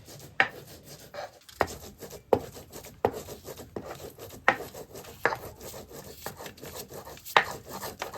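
Knife chopping garlic on a cutting board: a sharp knock about every three-quarters of a second, with quieter scraping between the strokes.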